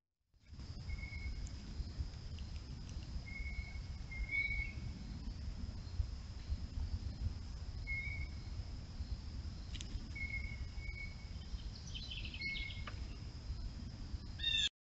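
Bird calling in short, single-pitched chirps, about seven of them spread irregularly, over a steady low rumble and a faint continuous high whine.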